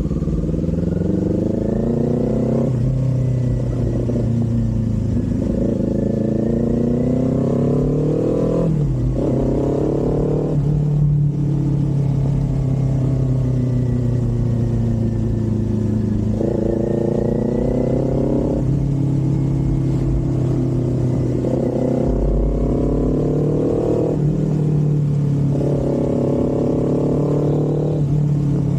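Kawasaki Z400 parallel-twin engine and exhaust under way, repeatedly climbing in pitch as the throttle is held, then dropping back at gear changes or throttle lifts.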